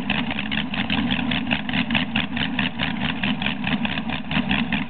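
LS7 7.0-litre V8 from a 2012 Corvette Z06, built with forged pistons and a performance camshaft, idling steadily on an engine run stand. Its idle has an even pulsing, about seven beats a second.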